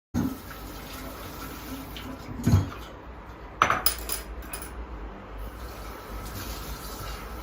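Dishes and cutlery being handled, with two sharp clatters about two and a half and three and a half seconds in over a faint steady background.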